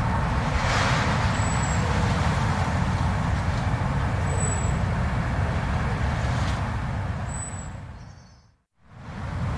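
Blizzard wind noise: a steady, heavy low rumble with hiss above it. About eight seconds in it fades out to silence and quickly fades back in, a loop seam in the recording.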